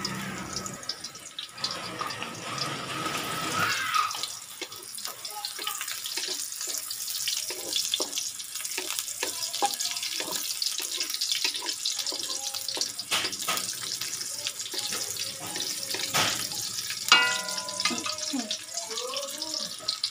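Chopped garlic and onion sizzling in hot oil in a wok, a steady frying hiss, with a wooden spatula scraping and knocking against the pan as it is stirred. Faint voices in the background.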